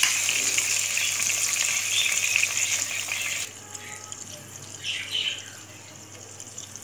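Ground onion masala and ginger-garlic paste sizzling in hot oil in a pan: a loud, even hiss that drops suddenly to a much quieter sizzle about three and a half seconds in.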